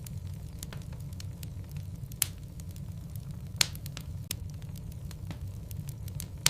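Wood logs burning in a fireplace, crackling with scattered small ticks and a few sharper pops, about two seconds in, three and a half seconds in and at the very end, over a steady low rumble.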